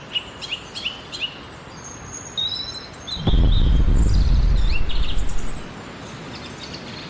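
Birds chirping, short repeated high chirps over a quiet background. About three seconds in, a loud low rumble starts and lasts about two seconds before fading.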